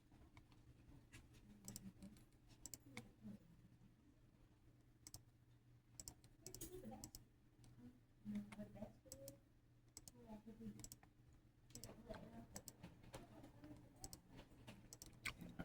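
Near silence: faint, irregular small clicks scattered through, over a low steady hum.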